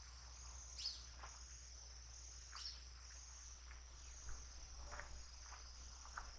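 Faint, continuous high-pitched chorus of crickets. A few short chirping calls break in over it, the clearest about a second in.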